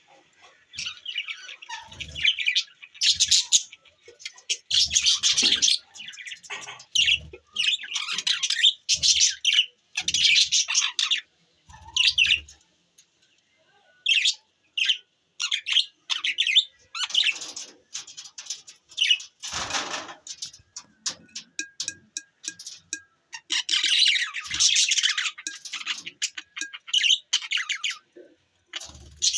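Budgerigars chirping and chattering in quick bursts of high warbling calls, with short pauses between bursts.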